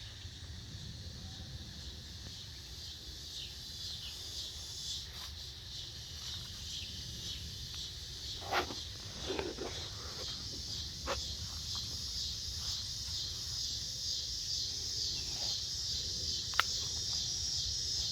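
Steady high-pitched, pulsing chorus of insects that grows slightly louder, with a low rumble underneath. A few sharp clicks or snaps stand out, the loudest near the end.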